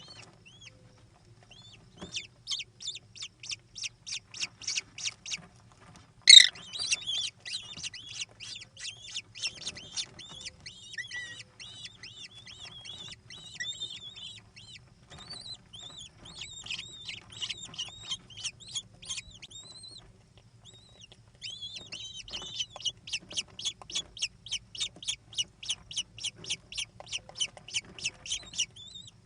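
American kestrels giving rapid, repeated shrill calls, about four a second, in long runs broken by a short pause near the two-thirds mark. One sharp, louder call comes about six seconds in.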